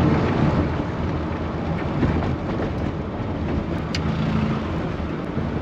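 Rover Mini's four-cylinder A-series engine running as the car is driven, with steady engine and road noise and a single click about four seconds in.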